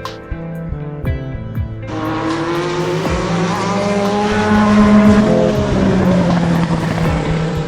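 Formula One car passing at speed on a race circuit, its engine note rising as it comes by, loudest about five seconds in, then dropping away as it recedes. Soft background music plays under it.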